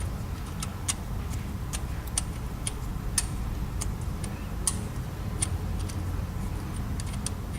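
Hand ratchet clicking in short strokes, sharp irregular metallic ticks about two or three a second, as a broken exhaust manifold bolt is backed out of the cylinder head. A steady low hum runs underneath.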